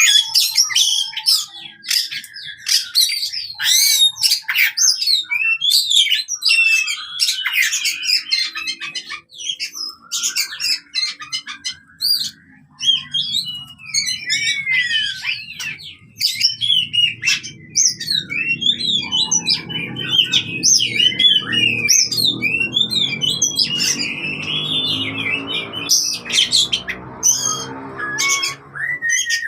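Oriental magpie-robin singing a fast, varied, aggressive song of loud whistles, trills and harsh chattering notes, in the fighting style. A faint low hum runs underneath from about twelve seconds in.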